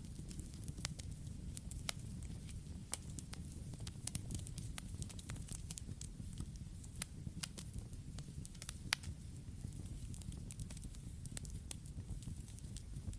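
Campfire burning, a steady low rumble of the flames with frequent sharp, irregular crackles and pops of burning wood.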